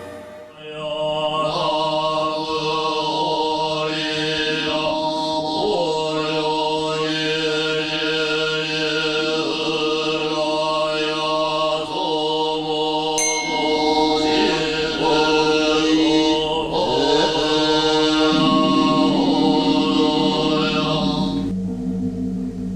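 Music of sustained, mantra-like chanting over a steady drone, the voices sliding in pitch between long held notes. A short bright ping sounds about halfway through, and near the end the chant gives way to a plainer held tone.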